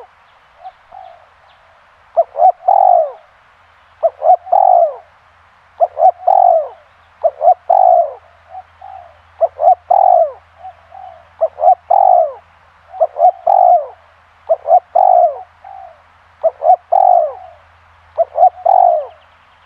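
Spotted dove (tekukur) cooing: a phrase of two or three short notes and then a longer falling coo, repeated about every two seconds.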